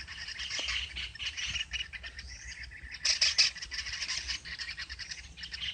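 Young kingfishers giving rapid, sharp, high chirping calls, with a louder flurry of calls about three seconds in.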